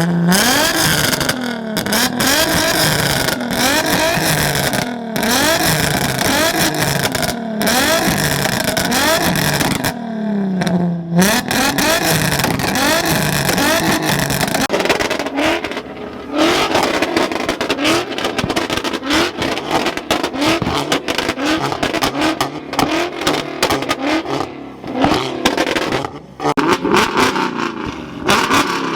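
Car engine revved repeatedly in quick blips, its pitch climbing and dropping about once a second, then one longer rev about eleven seconds in, followed by rougher, uneven revving.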